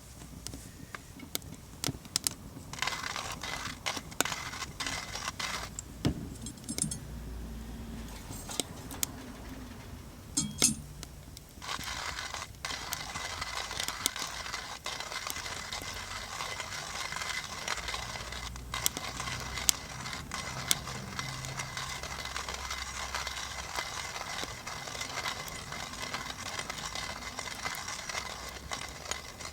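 Coffee beans being ground in a coffee mill: continuous gritty crunching with small metallic clinks. It builds up about three seconds in, eases off briefly around ten seconds, then runs steadily.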